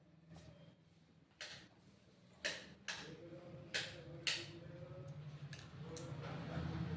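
About seven sharp ticks and taps at irregular intervals, over a low steady hum that grows louder near the end.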